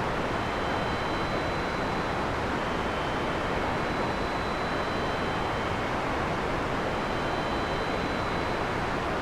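Heavy rain falling steadily: a dense, even hiss with no thunder, joined by a few faint, steady high tones.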